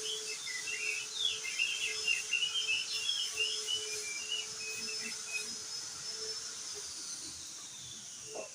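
Crested dark-eye (opior jambul) twittering: a fast, jumbled run of short high chirps that stops about five and a half seconds in. A steady thin high tone runs underneath and falls in pitch in the last second or two.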